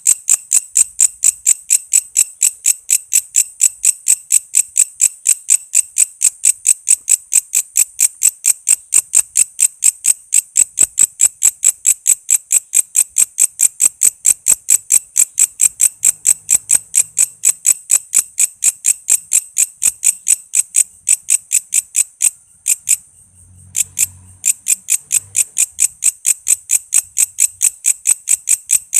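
Walang kece bush cricket calling: a steady run of short, high-pitched chirps, about four or five a second, with one brief break some three-quarters of the way through.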